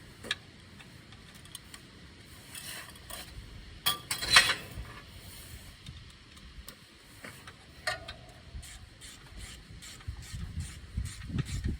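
Ratchet socket wrench clicking and metal tools clinking while bolts are tightened on a tractor's battery mounting, with one louder metallic clatter about four seconds in and a quick run of ratchet clicks near the end.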